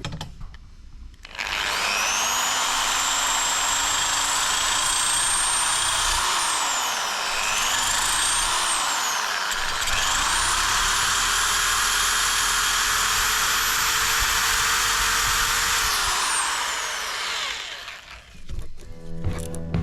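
Handheld power tool motor running with a high whine. It spins up about a second in, slows twice in the middle as it comes under load, speeds up again, then winds down near the end.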